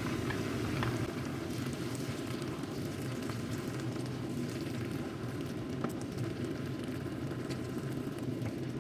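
Chopped tinned tomatoes sizzling and crackling in hot oil as they go into a frying pan of fried onion, garlic, ginger and green chillies, while a wooden spoon stirs them in. The sizzle holds steady throughout, with small scattered ticks.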